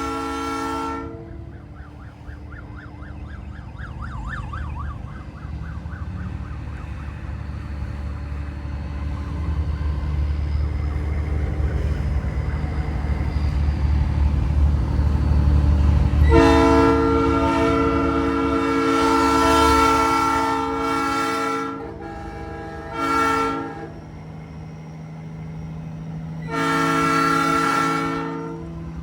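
Nathan Airchime P3 three-chime train horn on a semi truck sounding several blasts: a short blast at the start, a long blast of about five seconds past the middle, a short toot, and another blast of about two seconds near the end. The truck's diesel engine runs underneath, growing louder toward the middle.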